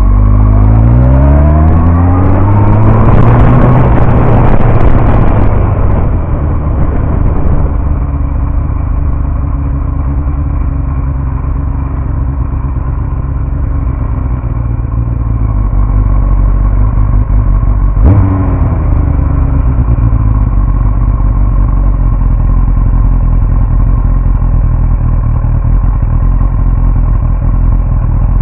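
Yamaha R1 sport bike's inline-four engine, heard from a camera mounted on the bike, rising in pitch under acceleration over the first few seconds and then running at a steady speed for the rest. A single sharp click comes about 18 seconds in.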